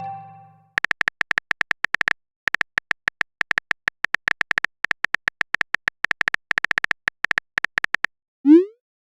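Phone-keyboard typing sound effect: a fast run of short, high electronic clicks, about ten a second, pausing briefly once. Near the end comes a short rising bloop, the message-sent sound.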